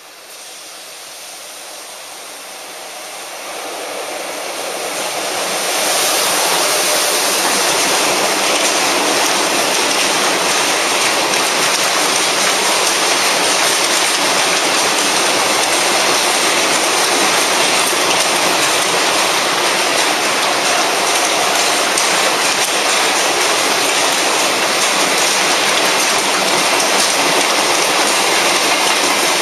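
Freight train of empty boxcars approaching and running through a station at speed. The sound grows louder over about the first six seconds, then holds as a steady, loud rush of wheels and wagons passing close by.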